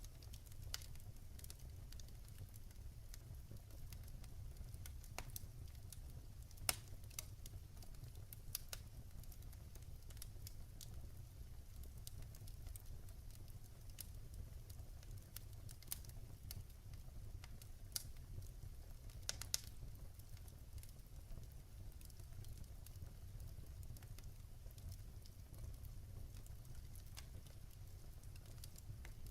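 Wood fire burning in a fireplace: a steady low rumble of the flames with scattered sharp crackles and pops of the burning logs, the loudest about a third of the way in and a quick cluster of pops about two-thirds through.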